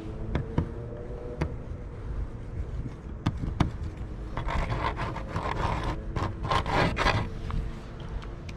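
Riding noise from a bicycle on city streets: low road rumble with scattered clicks and rattles, and a rough scraping noise for a few seconds around the middle.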